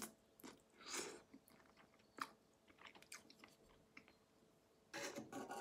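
Faint chewing of instant noodles: a few soft, scattered wet mouth clicks and smacks.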